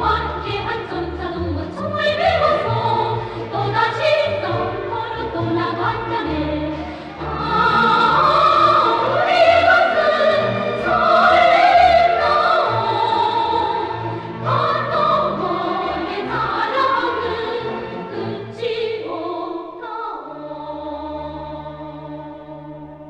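Choir singing with orchestral accompaniment, the music peaking about halfway through, then settling about 20 seconds in on a long held final chord that fades away.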